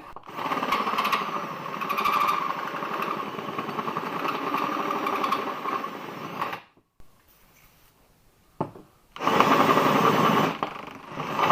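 Drill turning a 1 1/8 inch hole saw that chatters as it cuts into a GM starter's end cover, in one long run of about six seconds, then a short second burst near the end after a pause.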